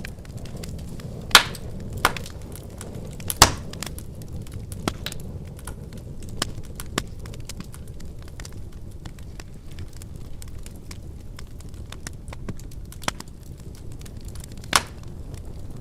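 Wood fire crackling in a fireplace: a steady low rumble of flames under frequent small crackles and a few loud pops, the loudest near one and a half and three and a half seconds in and another near the end.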